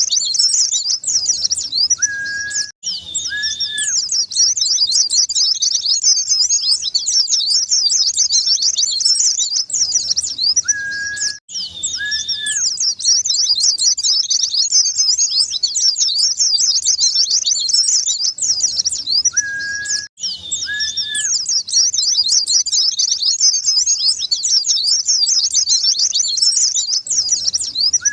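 White-eyes (pleci) singing a fast, dense, high-pitched twitter, with a pair of short lower whistled notes that come back each cycle. It is a looped recording: the same passage repeats about every nine seconds, broken by a brief gap each time.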